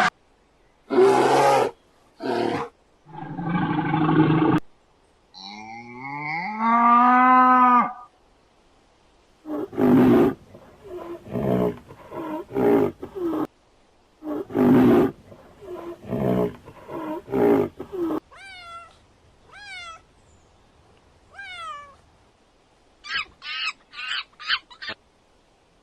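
A string of different animals' calls, one after another: a few short harsh calls, a long pitched cry that rises and falls, a run of repeated calls, then short falling whistles and quick high chirps near the end.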